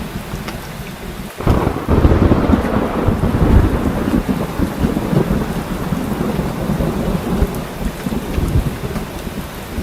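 Heavy rain falling steadily, with a sudden clap of thunder about a second and a half in that rolls on as a low rumble for several seconds, slowly dying away.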